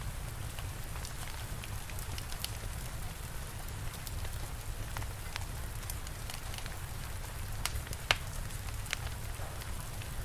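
Wood fire crackling with scattered pops, one sharper pop about eight seconds in, over steady rain and a low rumble.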